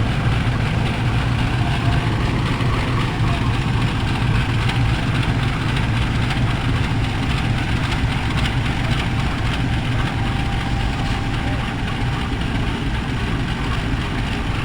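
Steady low engine drone and rumble of a diesel-hauled passenger train, with no clear changes.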